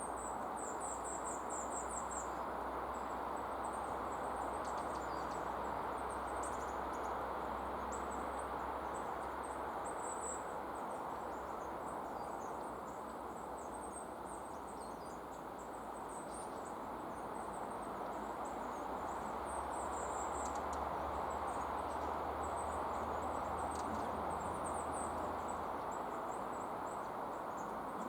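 Many short, very high, thin bird chirps in quick series, scattered all through, over a steady rushing background noise.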